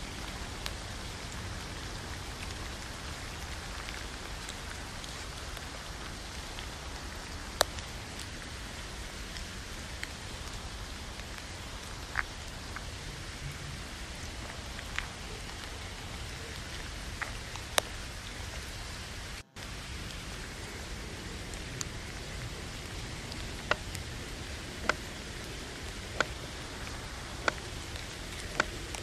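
Steady rain on a tent, with scattered sharp clicks. In the last few seconds a knife knocks on a wooden cutting board as carrots are sliced, about once a second.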